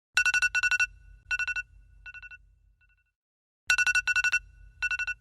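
Electronic phone ringtone: short, rapidly trilling bursts. A cluster of them near the start fades away in softer repeats, then a second cluster rings near the end.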